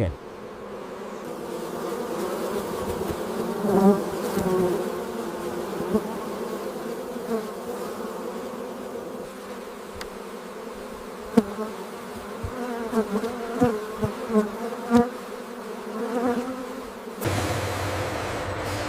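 Honeybees buzzing in the hive: a steady, wavering hum of many wings, with a few sharp clicks. About 17 seconds in it cuts to a lower, steady machine-like hum.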